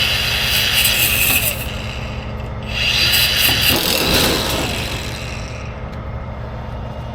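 Power cutting tool cutting through metal on the wrecked truck in two bursts, the first about a second and a half long and the second about three seconds.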